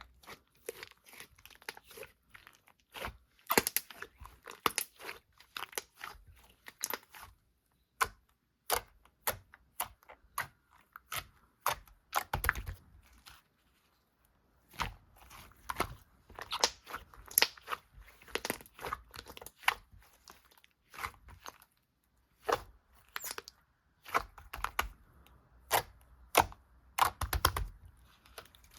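Close-up chewing and crunching with crinkling, a long run of sharp, irregular clicks and crackles broken by a couple of short pauses.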